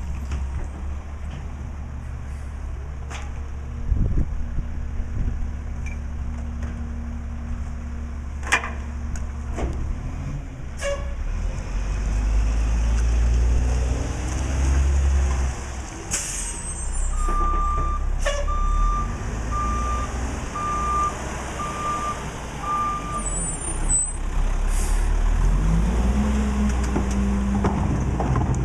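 Mack LE garbage truck's diesel engine running, with short air hisses and metal clanks. A reversing alarm beeps steadily for several seconds midway, and the engine revs up near the end.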